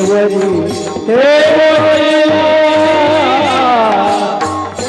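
A solo voice singing a Marathi Varkari bhajan, drawing one line out into a long held note with wavering ornaments, over a steady beat of drum and hand cymbals.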